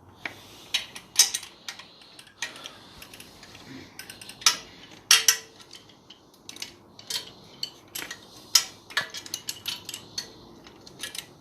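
Irregular metallic clinks and taps, some sharp and ringing briefly, as hand tools and small metal parts knock together during work on a motorcycle exhaust.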